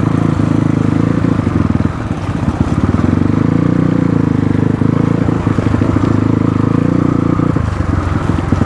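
Motorcycle engine running at a fairly steady throttle while being ridden, easing off briefly about two seconds in and again near the end.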